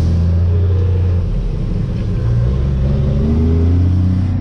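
A loaded dump truck's diesel engine running under way, heard from inside the cab. Its pitch drops about a second in, then climbs steadily as the truck accelerates.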